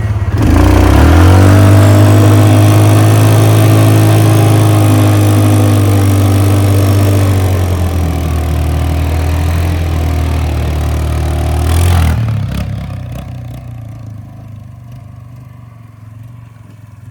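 Motorbike engine held on the throttle: its pitch climbs in the first second, then holds steady for about ten seconds before it drops off and fades near the end.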